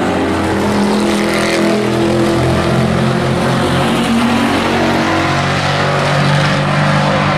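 Several race trucks' engines running together, their overlapping tones rising and falling as they accelerate and lift.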